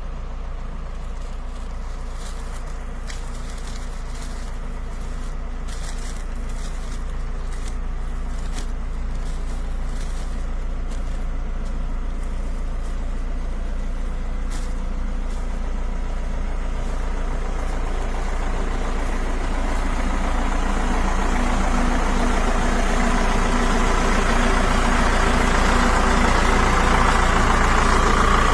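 Pickup truck engine idling with a steady low hum, a hiss growing gradually louder over the second half.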